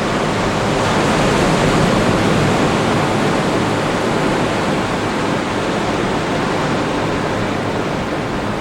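Ocean surf washing onto the beach: a continuous rushing wash that swells slightly a second or two in, then eases.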